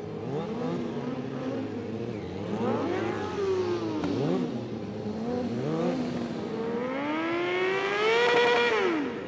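Motorcycle engines being revved, several overlapping, their pitch repeatedly rising and falling; one long rev climbs from about seven seconds in, peaks, and drops away near the end.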